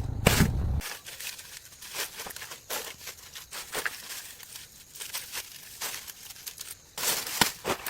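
Rustling and crinkling handling noise with scattered small clicks, quiet for most of the stretch, with abrupt jumps in loudness a little under a second in and again about seven seconds in.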